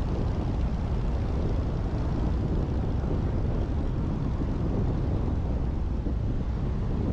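Light aircraft engine and propeller running steadily, a dense low rumble mixed with wind noise.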